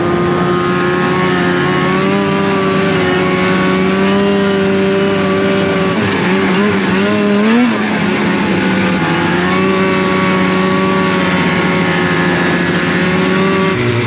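Snowmobile engine running steadily at riding speed, its pitch wobbling and briefly rising at about the middle, then settling back and dropping lower near the end.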